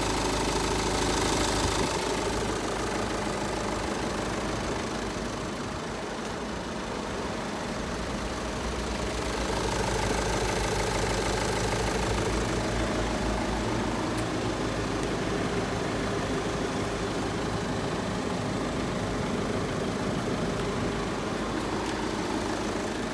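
Car engine idling steadily, not yet cleaned, its sound shifting slightly about two seconds in and again about ten seconds in.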